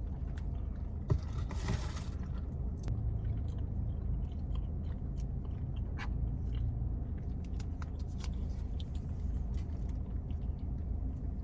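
A person chewing a fried chicken sandwich close to the microphone, with soft crunches and small mouth clicks, over a steady low hum. A short hiss comes about a second and a half in.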